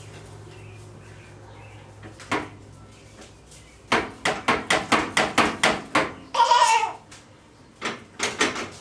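A rapid run of about a dozen sharp knocks, roughly five a second, then a brief squeal, then three more knocks near the end.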